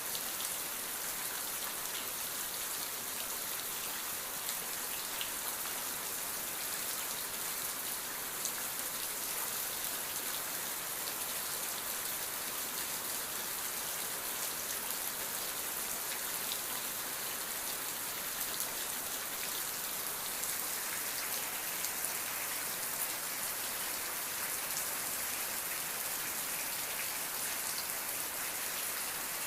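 Steady rain falling, an even hiss of many drops with scattered individual drop ticks, with no thunder.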